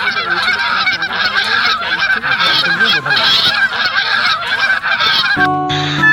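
A flock of waterfowl honking and calling over one another in a dense, continuous chorus. Near the end it cuts off and plucked guitar music starts.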